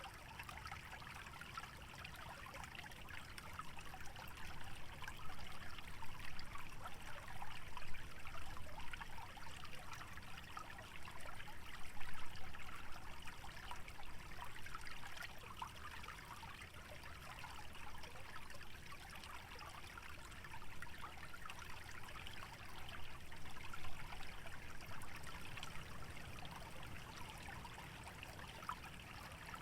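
Small wetland stream trickling and splashing steadily over shallow water, with a low rumble underneath; it swells louder through the middle stretch, then settles again.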